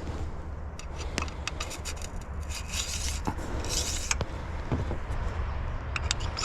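Objects being handled: scattered light clicks and short scraping rustles, the two loudest about three and four seconds in, over a low steady background rumble.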